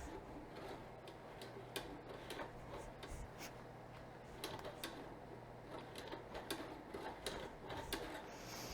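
Faint, irregular clicks and ticks, about one or two a second, as a freshly oiled Kawasaki KLX250S front fork is pumped by hand to bleed the air out; the fork is stiff to pump.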